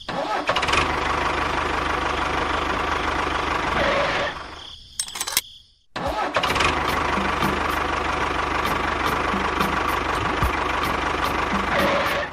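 Tractor engine running steadily, dying away a little past four seconds in. About six seconds in it starts up again and runs evenly, with a faint regular ticking.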